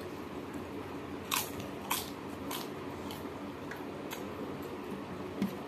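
Crisp fried papad being bitten and chewed: a series of sharp crunches, loudest about a second and a half and two seconds in, then fainter ones spaced out.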